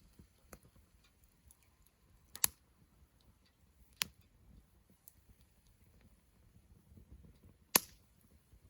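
Wood campfire crackling: scattered small snaps with three louder sharp pops, about two and a half, four and nearly eight seconds in.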